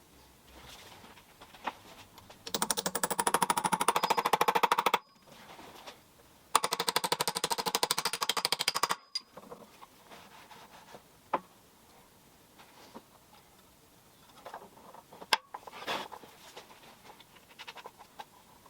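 Two bursts of fast, even mechanical rattling, each about two and a half seconds long, one starting about two and a half seconds in and the other about six and a half seconds in. Scattered clicks and knocks follow.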